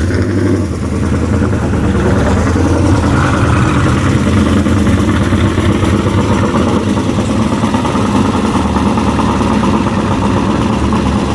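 A car engine running steadily, close by.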